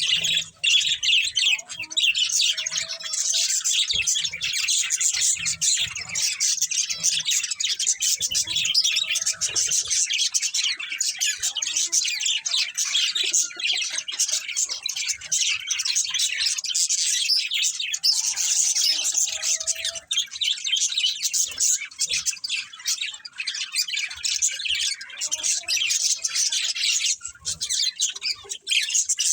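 A flock of budgerigars chirping and chattering continuously, many rapid overlapping high-pitched chirps.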